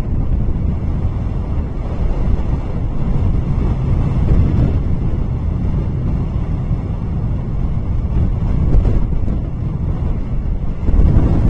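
Wind buffeting an outdoor nest-camera microphone: a loud, gusting rumble with no distinct calls.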